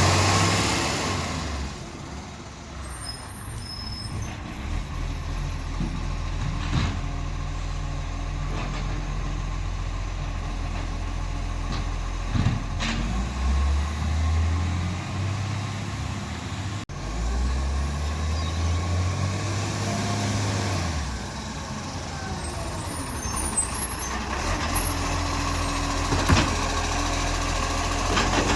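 International Acco garbage truck's engine running steadily, revving up twice for a few seconds each near the middle. A few sharp knocks sound over it.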